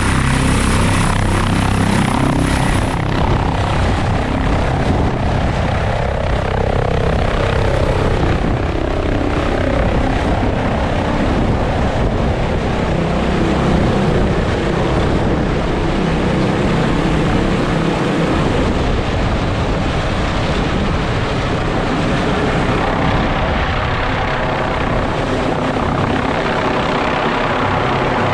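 Helicopter running steadily, its rotor and engine noise continuous, with a faint high whine rising in pitch during the first few seconds.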